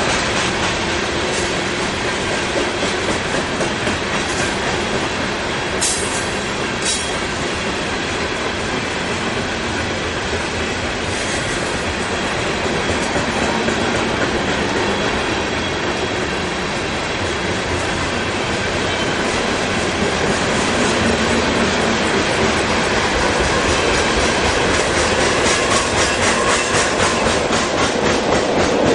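A freight train of loaded coal hopper cars rolling steadily past at close range, a continuous rumble with wheels clattering over the rail joints. Two short, sharp high sounds stand out about six and seven seconds in.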